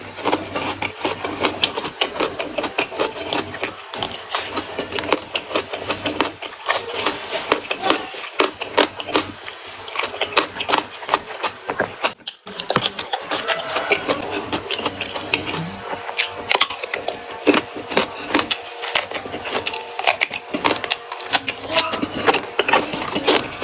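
A person chewing and crunching raw vegetables, a rapid run of crisp crunches with a short pause about twelve seconds in.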